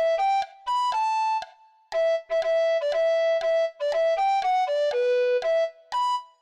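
A bright synthesized instrument playing a pop melody one note at a time, with no accompaniment: short, steady notes with clicky onsets in quick phrases, a brief pause about a second and a half in.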